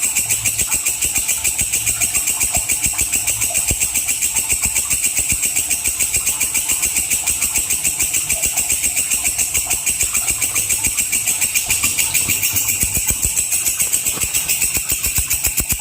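Walang kecek insect calling: a fast, even train of high-pitched pulses, about six a second.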